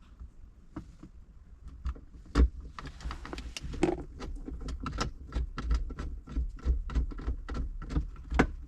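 Screws being driven back into a vehicle's interior trim panel: a run of irregular sharp clicks and knocks of the screwdriver and plastic trim, with a brief hiss about three seconds in.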